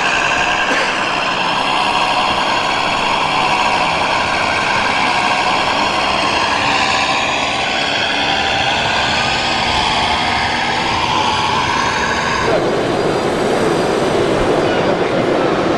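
1/14-scale RC model trucks running, with their sound modules playing simulated truck engine noise over the murmur of a crowd. About three-quarters of the way in the sound changes abruptly to a rougher, noisier engine sound.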